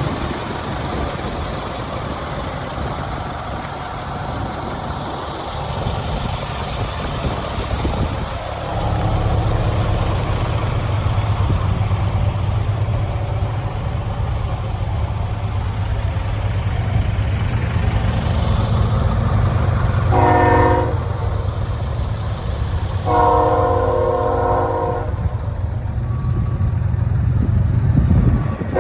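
Freightliner FL80's Cat 3126 diesel engine running, its note rising and holding higher about eight seconds in. Near the end the truck's horn sounds twice, a short honk and then a longer blast.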